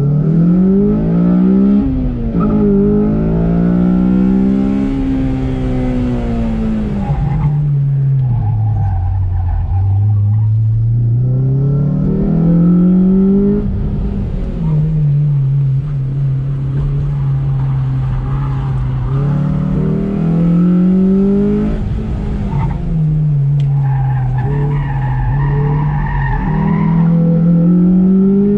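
Honda Civic Si's four-cylinder engine, breathing through an aftermarket header and cat-back exhaust, driven hard: it repeatedly revs up, drops back at each lift or gear change and climbs again, with the tires squealing in the corners.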